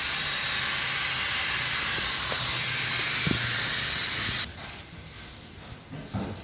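High-pressure water spray from a car-wash pressure washer hissing steadily, cutting off suddenly about four and a half seconds in.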